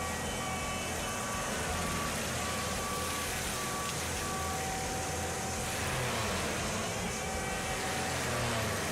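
Heavy road-maintenance machine (a road milling machine or sweeper) running under load: a steady engine and working noise, with a beeping warning alarm repeating about twice a second through the first half.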